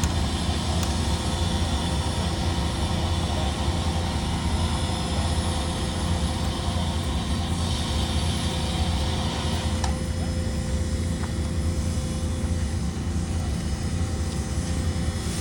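A steady low engine rumble with a few steady tones running through it. The higher hiss above it drops away about ten seconds in.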